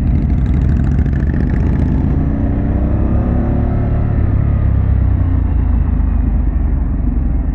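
Harley-Davidson Pan America's V-twin engine and aftermarket Vance & Hines exhaust running as the bike rides along, with wind noise; the engine eases off and its pitch falls slowly after about two seconds.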